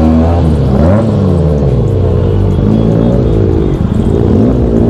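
Benelli 600i's inline-four engine through an ixill aftermarket exhaust, revved up and down again and again at low speed, its pitch rising and falling several times.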